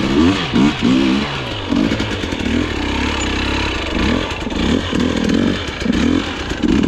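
Dirt bike engine revved in repeated short blips, its pitch sweeping up and dropping back roughly once or twice a second over a steady low rumble.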